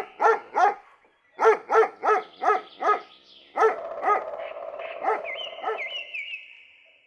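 Dog barking in quick runs of short barks, about three a second, pausing briefly about a second in; the later barks are softer.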